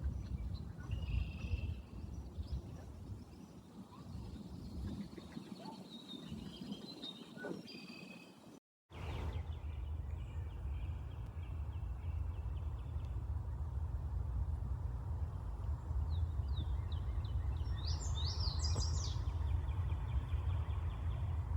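Small songbirds chirping and trilling in short, scattered phrases, over a steady low rumble. The sound cuts out briefly about nine seconds in. Quick high chirps come in a run near the end.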